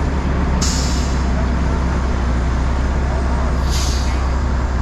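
Heavy truck engine running steadily, with two short hisses of air-brake release, one about half a second in and another about three and a half seconds in.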